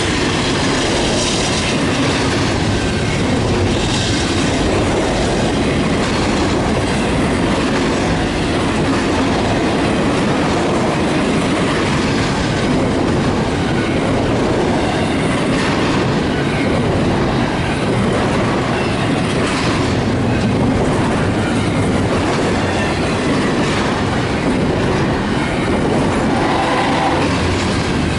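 A train's railcars rolling past, a loud steady rumble and rattle with wheels clicking over rail joints.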